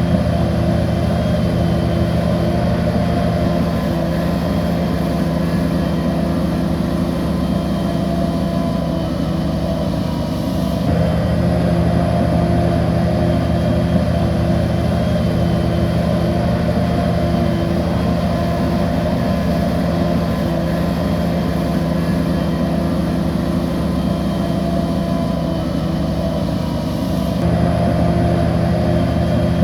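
Bulldozer's diesel engine running steadily under work load. Its note shifts slightly about eleven seconds in and again near the end.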